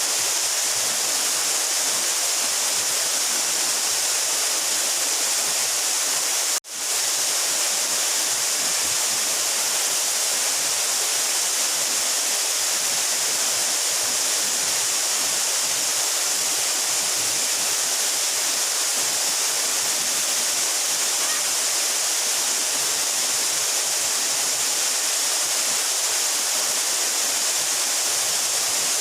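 Steady rush of a 12-metre mountain waterfall, a dense hiss with most of its weight in the treble. About six and a half seconds in, the sound cuts out for an instant and fades straight back in.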